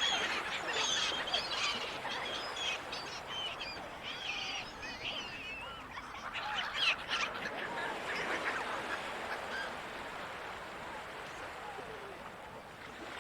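Gulls calling, many short overlapping cries at first that thin out over the last few seconds, over a steady background rush.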